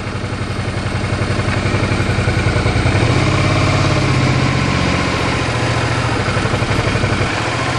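Motorcycle engine running while the bike is ridden, its revs climbing a little about two seconds in and then holding steady.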